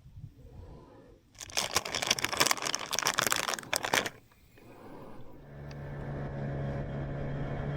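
Loud rustling handling noise for about three seconds, then, a little after five seconds in, a boat motor starts running with a steady low hum.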